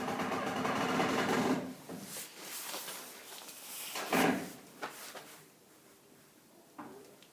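Metal fittings of a Kratki Zuzia cast-iron fireplace insert sliding with a grating scrape for about two seconds, then a few separate clanks and knocks, the loudest about four seconds in.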